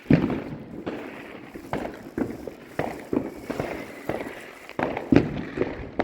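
Fireworks going off in a rapid, irregular string of bangs and crackles, each with an echoing tail, and a faint high whistle in the middle.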